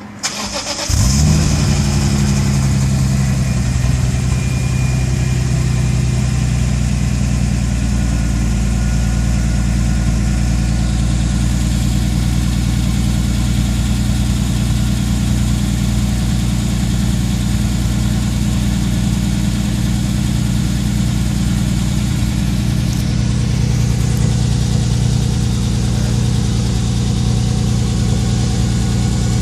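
BMW E46 M3's S54 straight-six, breathing through a newly fitted Scorpion rear muffler with Supersprint headers and high-flow cats, starts about a second in with a brief rise in revs. It then idles steadily, the muffler not yet broken in.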